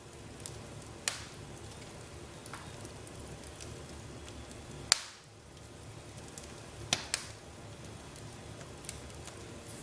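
Wood fire in a fireplace crackling: a steady low hiss with a few sharp pops, one about a second in, a louder one near the middle and two close together about seven seconds in.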